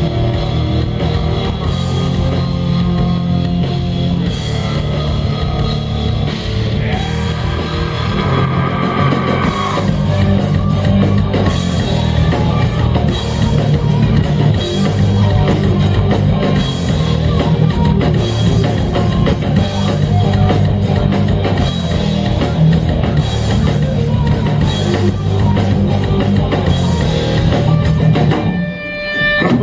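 Punk rock band playing an instrumental passage with guitars, bass and drum kit, with a short break near the end.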